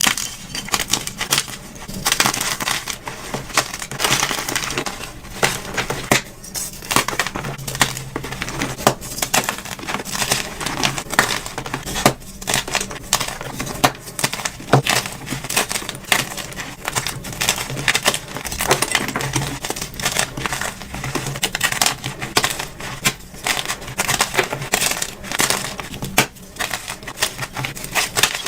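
Blocks of dyed gym chalk being crushed and crumbled: a dense, continuous run of crunches and crackles.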